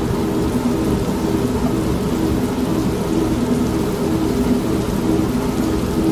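Old washing machine running, its motor humming in short pulses about twice a second, mixed with steady rain and a low rumble of thunder.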